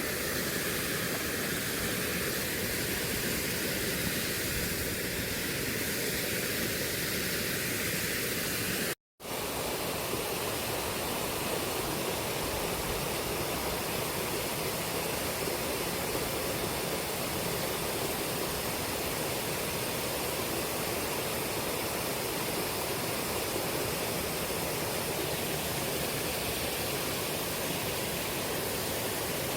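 Fast shallow river current rushing steadily over stones, broken by a moment's silence about nine seconds in.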